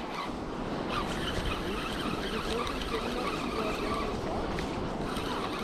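Steady rushing noise of surf and wind, with faint, wavering squeaky tones over it.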